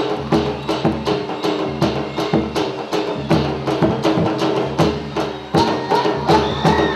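Gujarati folk dance music: a quick, even beat of sharp, wood-like percussive clicks, about four a second, over steady held tones. A higher melodic line comes in near the end.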